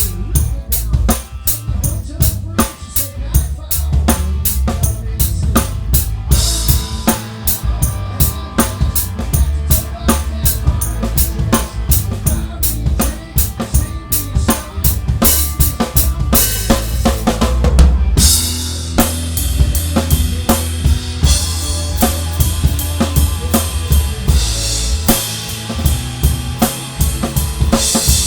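A live band playing, heard close up from the drum kit: kick drum and snare keep a steady beat over bass and guitars, with cymbals washing in more heavily about six seconds in and again from about eighteen seconds on.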